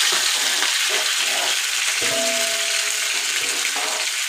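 Steady sizzle of chicken frying in hot oil, with a few held musical tones for about a second and a half in the middle.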